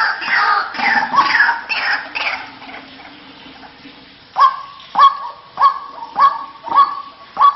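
White-breasted waterhens (ruak-ruak) calling. Overlapping, jumbled calls fill the first couple of seconds and then die down. From about four and a half seconds in, a regular series of sharp calls follows, roughly one every 0.6 seconds.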